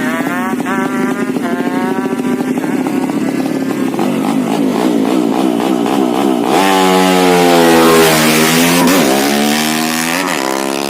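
A Honda C70 motorcycle with a 200cc single-cylinder four-stroke engine built on a Honda Karisma base, running and being revved. The pitch wavers with quick throttle blips for the first six seconds. About six and a half seconds in it revs up sharply and louder, holds, then drops back with a couple of short blips near the end.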